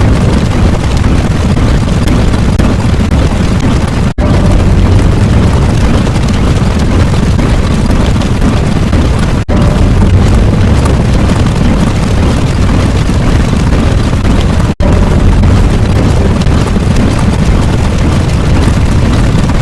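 Loud, continuous explosion-like rumble, heaviest in the low end. It sounds like a sound-effect clip of about five seconds looped over and over, with a brief dropout at each join, about every five seconds.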